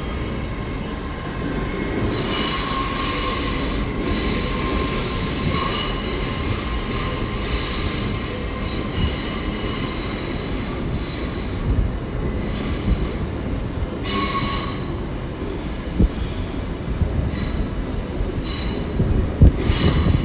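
Passenger train wheels running slowly over the station tracks with a steady low rumble. There is a high-pitched metallic wheel squeal in stretches, loudest about two to four seconds in, again around fourteen seconds and near the end, with a few sharp clicks from the rail joints.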